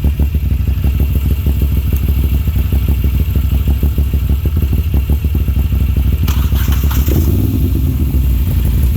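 Moto Guzzi air-cooled transverse V-twin idling with a steady low pulse. About six seconds in a second Moto Guzzi V-twin is cranked and catches, and the two engines then idle together.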